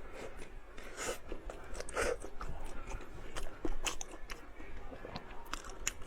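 A person biting and chewing food, with irregular crunchy clicks and wet mouth sounds.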